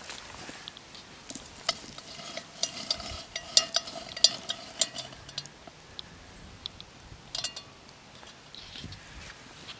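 A metal utensil stirring and scraping pieces of pheasant breast frying in oil in a Dutch oven, with a run of sharp clinks against the pot in the middle and one more near the end.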